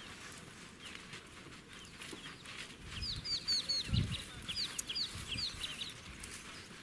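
Birds calling over a quiet open-air background: a run of quick, high, falling chirps from about three seconds in. A single soft low thump about four seconds in.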